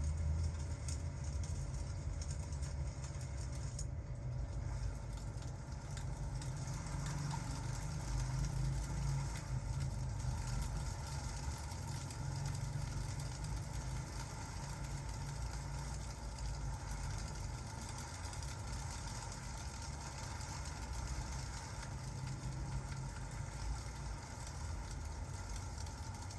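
Steady ambience of rain and a crackling fire, with a continuous low rumble underneath and faint scattered crackles.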